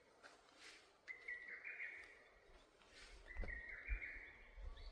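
A songbird singing the same short phrase twice, faintly, over a quiet forest background. From about three seconds in there is a low rumble underneath.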